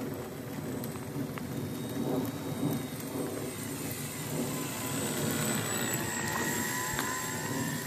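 Steady rain noise, joined in the second half by the whine of a ParkZone T-28's electric motor as the RC plane passes low overhead, the pitch sliding down a little as it goes by.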